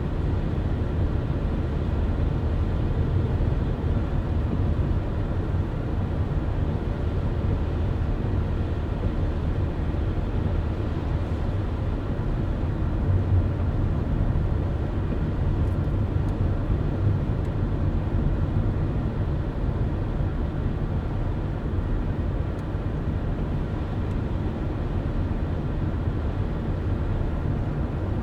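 Steady low rumble of a car driving at an even speed: tyre and engine noise with no change in pace.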